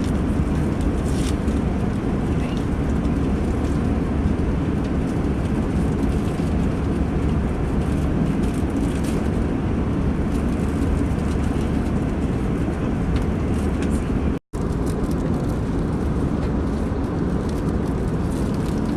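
Steady cabin noise of an airliner in flight: a constant low rush from the engines and airflow. It drops out for an instant about two-thirds of the way through, then carries on unchanged.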